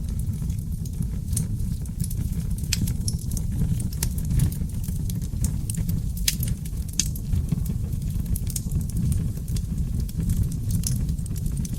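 Wood fire burning in a fireplace: a steady low rumble of flames with frequent small crackles and pops from the logs, one louder pop about six seconds in.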